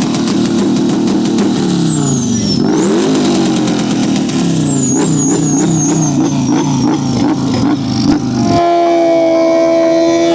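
Motorcycle engine revving hard, with a high whistle that rises and falls with the revs. The revs drop and climb again, then come in quick blips about three a second. Near the end the engine is held steady at high revs.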